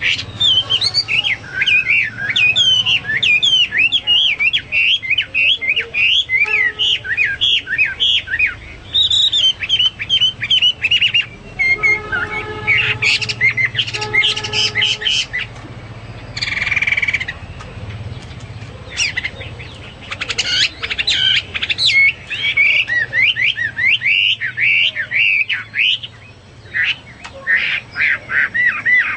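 Chinese hwamei (melodious laughingthrush) singing a long, fast run of varied whistled phrases that sweep up and down in pitch, with a brief harsh note about two-thirds of the way through.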